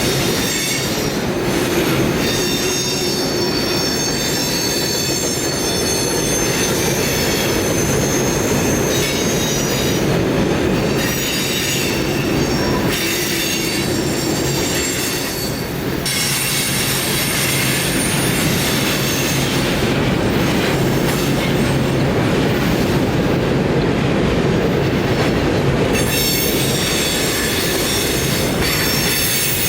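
Train of railroad cars rolling past with steel wheels squealing: several high-pitched squeals that come and go over a steady rumble of the cars.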